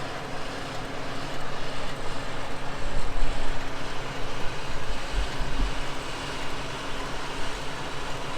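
Four-wheel-drive engines running steadily during a beach vehicle recovery, over a broad hiss of wind and surf, with heavy low rumbles of wind on the microphone from about three to six seconds in.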